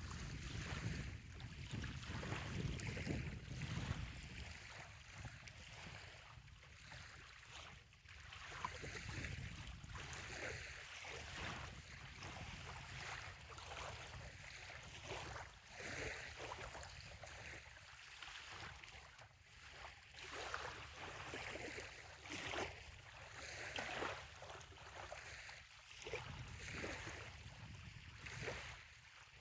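Small waves lapping gently on a sandy bay shore, washing in every second or two. Low wind rumble on the microphone, strongest in the first few seconds.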